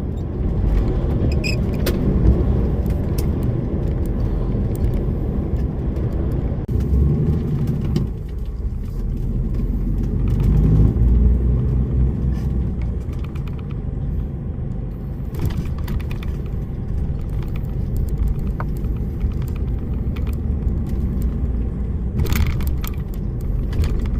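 DAF lorry driving, heard from inside the cab: a steady low drone of engine and road noise, with a few short clicks and rattles now and then.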